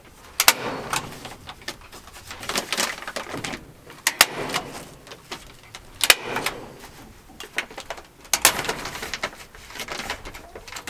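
Reverse-grip hand staple gun driving T50 staples through a woven grain sack into the coop, about five sharp snaps a couple of seconds apart, with the sack rustling between shots.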